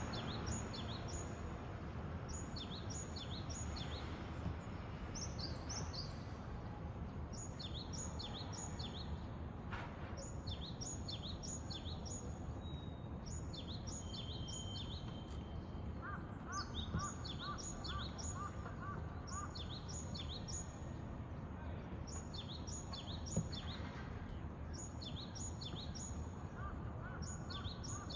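Japanese tit singing, repeating short phrases of high, falling notes in quick groups of three or four, over a steady low background rumble.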